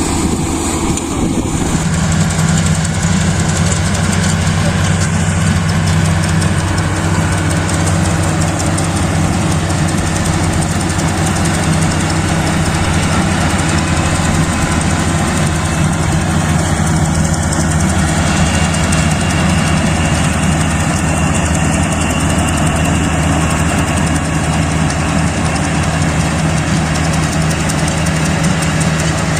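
Kubota DC-35 combine harvester's diesel engine running steadily with a constant low hum, with machinery noise over it.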